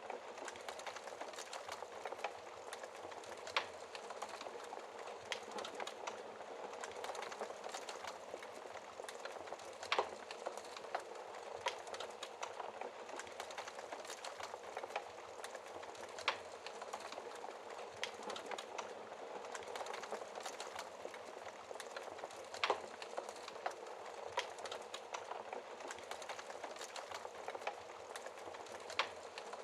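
Wood fire crackling: a steady soft hiss with frequent irregular sharp pops, a handful noticeably louder than the rest.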